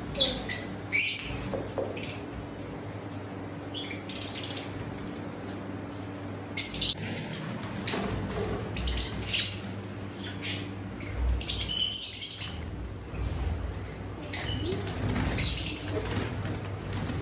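Birds flapping their wings in short, scattered flurries, with brief high calls mixed in.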